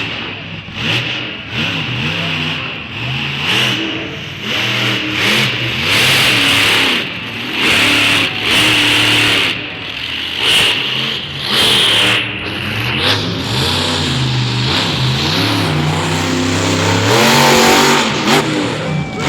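Monster truck engine revving hard again and again, its pitch climbing and dropping with each burst of throttle, loudest in a long run near the end.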